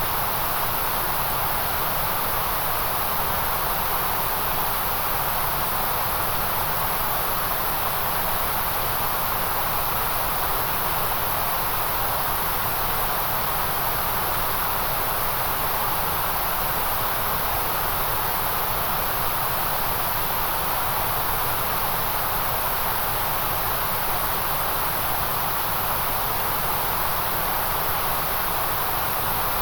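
Steady white noise: a continuous, unchanging hiss with no events, strongest in the middle and at the very top of the range.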